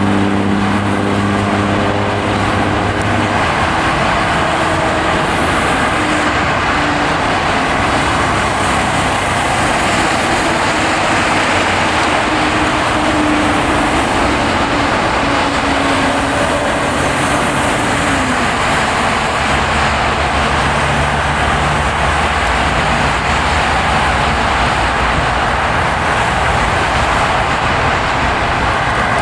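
A car driving: steady tyre and road noise with a low engine hum that fades a few seconds in and comes back about two-thirds of the way through.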